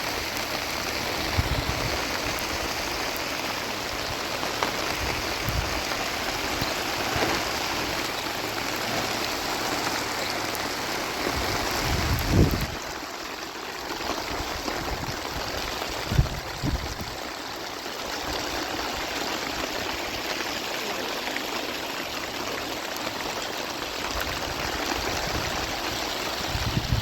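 Heavy rain falling steadily, with a few dull low thumps, the loudest about twelve seconds in.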